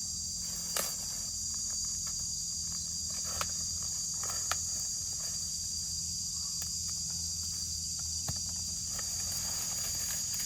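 Steady high-pitched chorus of insects, with a few faint light knocks or steps now and then.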